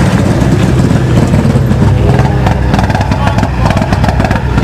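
Rally car engine running at low revs close by: a loud, lumpy, steady rumble.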